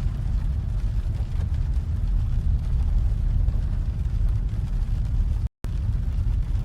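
Steady low rumble of a car on the move: road and engine noise heard from inside the vehicle. The sound cuts out completely for a moment near the end.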